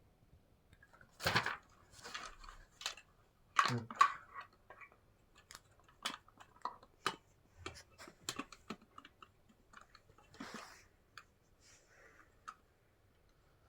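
Irregular clicks, taps and rustles of plastic vacuum-cleaner parts and a paper leaflet being handled, with a few sharper knocks and one longer rustle.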